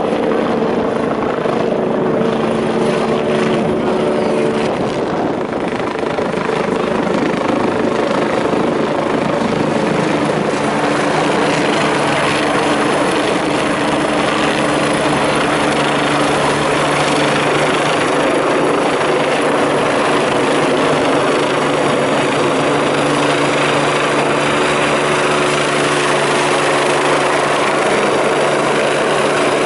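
Sécurité Civile EC145 twin-turbine helicopter running loud and steady, turbine whine and rotor noise with no break, the pitch pattern shifting slightly about five seconds in.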